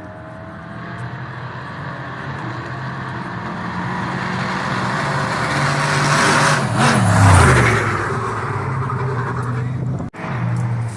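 Off-road race vehicle's engine approaching and growing steadily louder, then passing close about seven seconds in with its pitch dropping as it goes by. The sound cuts out for an instant near the end.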